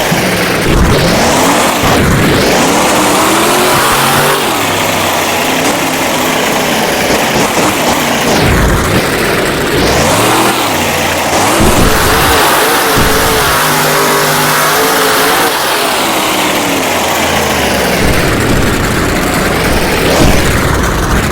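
Monster truck's supercharged V8 engine revving hard again and again, its pitch rising and falling several times, with a few sharp loud hits along the way.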